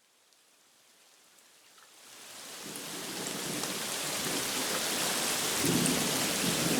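Steady rain, fading in from silence over the first few seconds. A low rumble of thunder comes about five to six seconds in.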